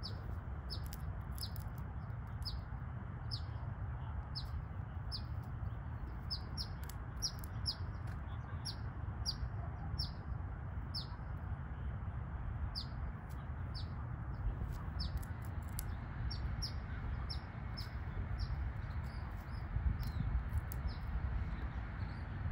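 A bird calling over and over: short, high chirps that slide downward, about two a second, over a low steady rumble.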